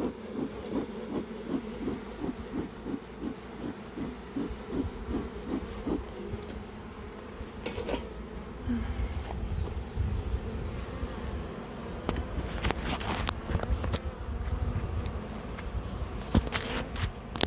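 Honeybees buzzing around an open hive: a steady hum that pulses about three times a second for the first few seconds, then evens out, with a few sharp clicks.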